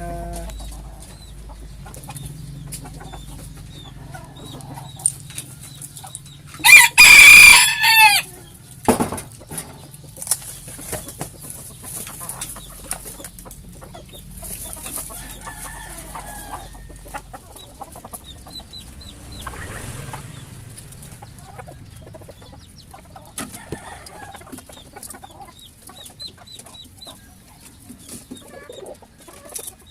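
A bantam rooster crows once, loudly, about seven seconds in, amid scattered clucking of bantam chickens.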